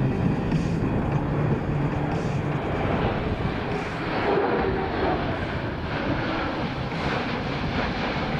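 Boeing C-17 Globemaster III's four Pratt & Whitney F117 turbofan engines in flight, a steady jet rumble that swells a little about four seconds in.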